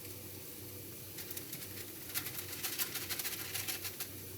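Stir-fry vegetables and garlic frying in oil in a pan, sizzling steadily, with a run of quick crackles and pops from about a second in until near the end.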